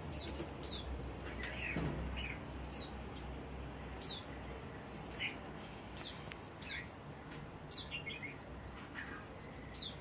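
Caged bird chirping: short, high calls that fall in pitch, one or two a second, over a steady low hum.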